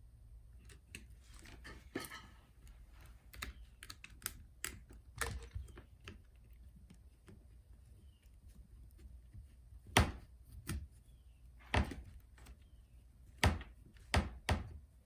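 Irregular light clicks and taps of hand tools against an opened MacBook Pro as its battery is worked loose, with a few louder knocks in the second half.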